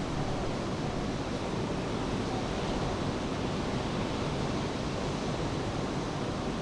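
Steady wash of rain and ocean surf, an even noise with no breaks or distinct events.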